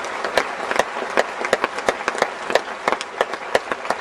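Audience applauding, with many sharp individual hand claps standing out close by.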